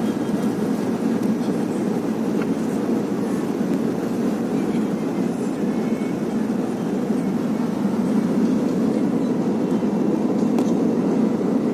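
Steady low rumble of airliner cabin noise, engines and airflow heard from inside the passenger cabin.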